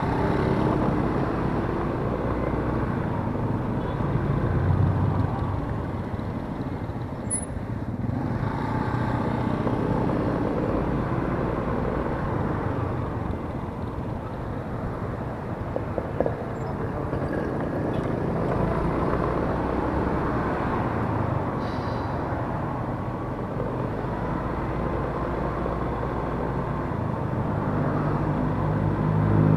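Yamaha Mio S 125 scooter's single-cylinder engine running under way on the road, with steady road and traffic noise, swelling near the end.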